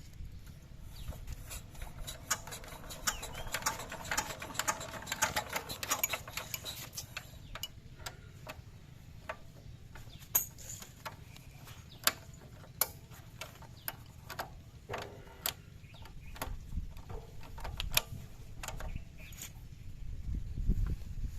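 A small diesel engine running with a low, steady rumble, under many scattered clicks and rattles; the rumble grows louder near the end.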